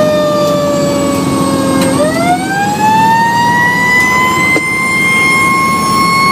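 Fire engine siren wailing over the truck's running engine: its pitch falls slowly for about two seconds, then climbs quickly and holds high.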